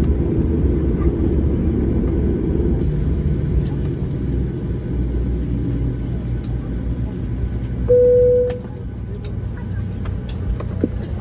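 Steady low rumble of an airliner cabin on the ground, with a single cabin chime about eight seconds in and a few light clicks near the end.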